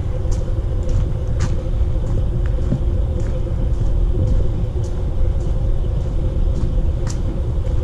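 A steady low rumble on a handheld camera's microphone while walking, with scattered light ticks of footsteps on the trail and a faint steady hum.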